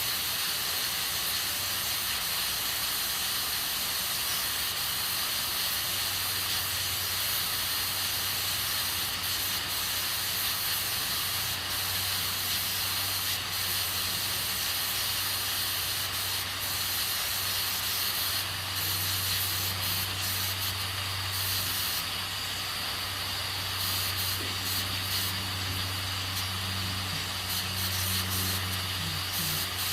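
Aluminium pressure cooker hissing steadily as steam escapes through its valve under pressure, with a low hum underneath that grows stronger about six seconds in.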